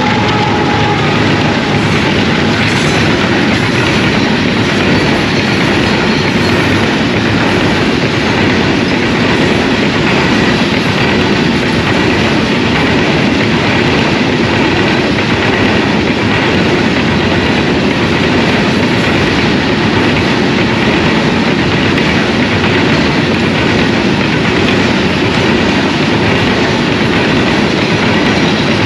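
Diesel-hauled coal train of hopper wagons passing through at speed: a steady rumble and clatter of wagon wheels over the rails, continuous and unchanging in level.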